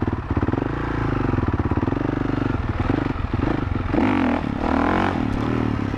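Honda CRF450R single-cylinder four-stroke dirt bike engine idling, with two quick throttle blips in the second half that rev it up and let it drop back to idle.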